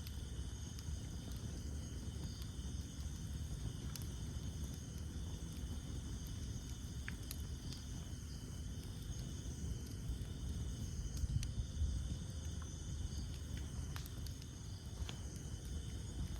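Campfire burning wood: a low, steady rumble of flames with a few sharp crackles every couple of seconds. A steady insect chorus, like crickets, runs high in the background.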